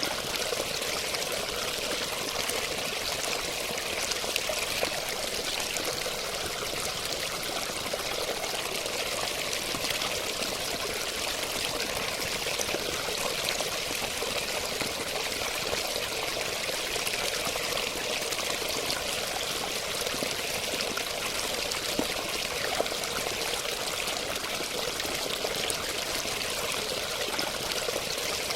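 Running water, like a small stream, flowing and splashing steadily with an even, bright rush and little deep rumble.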